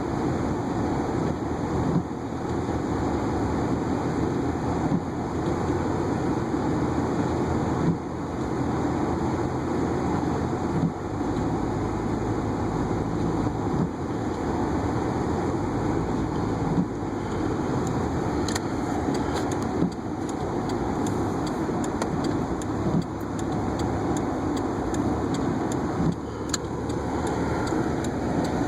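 Car driving on snowy city streets, heard from inside the cabin as a steady rumble of engine and tyres, with a short knock about every three seconds.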